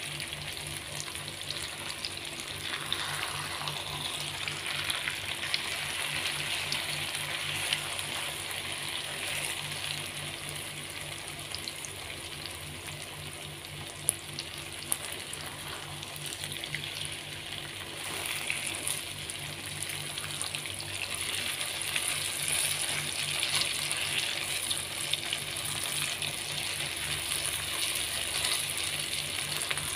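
Tofu and egg sizzling in hot oil in a granite-coated nonstick wok, stirred and turned with a spatula, with a few sharp taps of the spatula on the pan.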